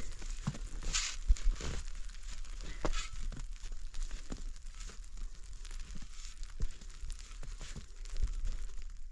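Rustling, crinkling handling noise with many short sharp clicks and crackles scattered through it, over a steady low rumble.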